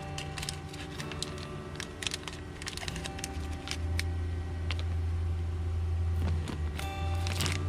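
Irregular small clicks and taps of plastic parts being handled, as on a dashboard switch panel, over a steady low background tone.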